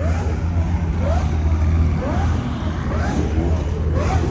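Car engine running with a steady low drone amid a crowd, with a short rising chirp repeating about twice a second.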